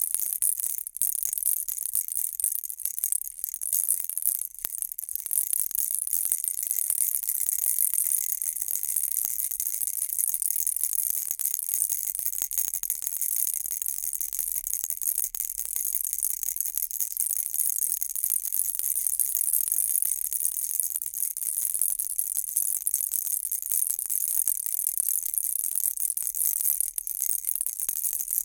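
Baby's toy rattle shaken continuously, a steady bright high jingling and rattling of small beads or bells.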